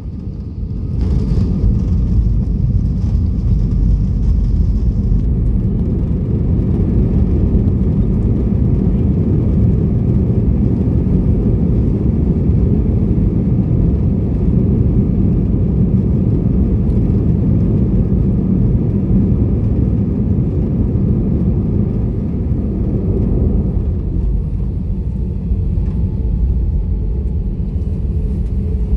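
Steady low rumble of an Airbus A320. It eases slightly about 24 seconds in, when a faint steady hum comes in.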